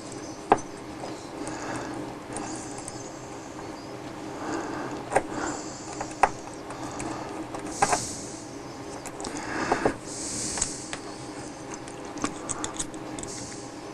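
Hands handling small parts: scattered light clicks and knocks with rustling in between, and a quick run of small ticks near the end.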